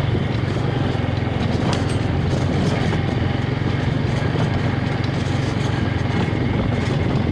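Honda engine running steadily under way, a constant low drone that holds an even pitch and level throughout.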